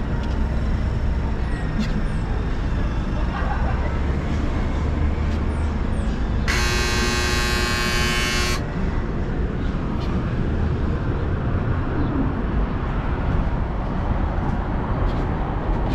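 City street traffic with a steady low rumble of passing vehicles, and a vehicle horn blaring once for about two seconds near the middle.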